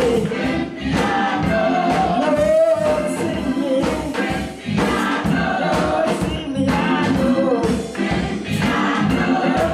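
Church choir singing a gospel song over a band with a steady beat.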